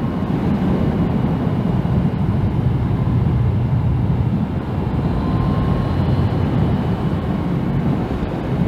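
Motorcycle riding at a steady cruising speed: a continuous low rush of wind buffeting over the microphone, mixed with the bike's engine and road noise, with no changes in speed.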